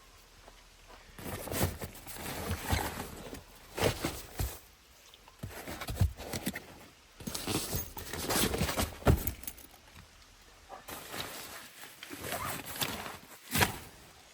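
Irregular rustling with sharp knocks and clicks, coming in bursts.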